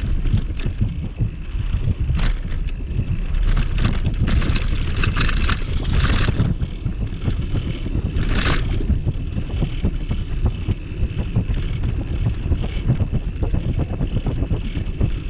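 Wind buffeting the microphone of a bicycle-mounted camera while riding, a steady low rumble, with short bursts of higher rattling noise several times, strongest about two seconds in and around the middle.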